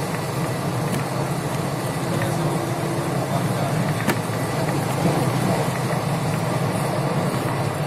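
Passenger train running at speed, heard from inside the coach: a steady rumble of wheels on the rails, with a single sharp click about four seconds in.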